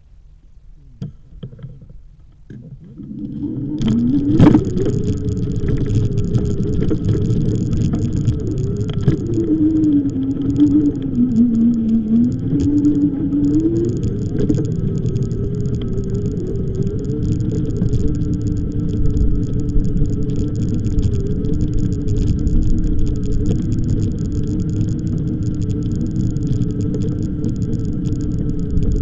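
Riding an e-bike: from about three seconds in, a loud steady rumble of wind and road noise, with a hum that wavers in pitch running through it.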